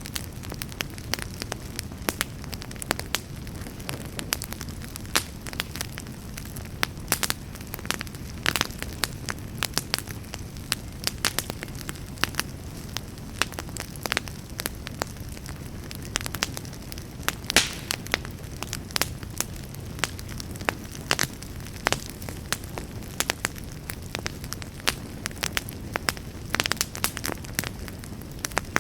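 Campfire burning steadily, with irregular sharp crackles and pops over a low, even rumble of the flames.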